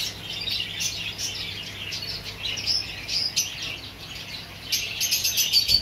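Many small caged birds chirping and twittering at once in a steady, overlapping chatter that grows busier and louder near the end.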